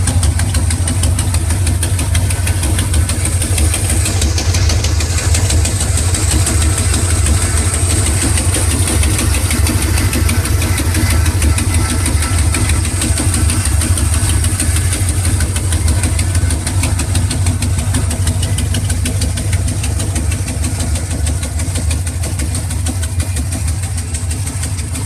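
A 1957 Chevrolet dragster's engine idling steadily with rapid, even pulsing, easing slightly in loudness over the last several seconds.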